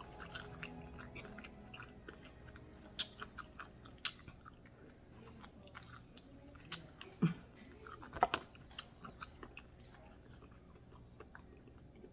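Close-miked chewing and biting of crispy fried chicken: scattered small crunches and mouth clicks, with a handful of louder crunches spread through.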